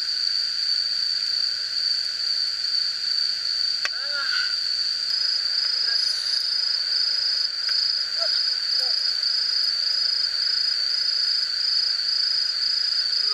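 Insects trilling steadily and without pause, in a high, even chorus. A single sharp click comes about four seconds in.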